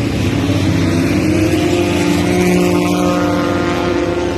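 Several car engines running at once at a track, their steady tones overlapping at different pitches with slight rises and falls.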